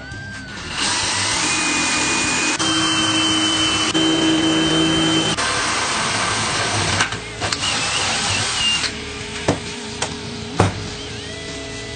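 A power tool running steadily for about eight seconds, then stopping, followed by several short sharp knocks.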